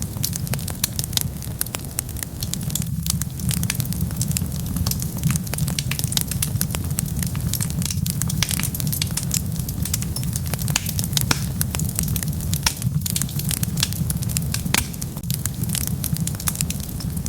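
Wood fire burning with a steady low rumble of flames and dense, irregular crackles and pops throughout.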